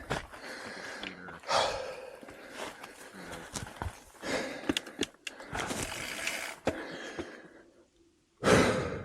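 Heavy, breathy exhales from an exerting rider, the loudest near the end, with scattered sharp clicks and knocks between them.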